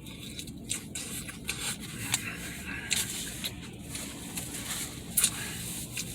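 Close-up eating sounds: wet chewing and scattered clicks and scrapes of a utensil against food and its container, with one sharper click about five seconds in.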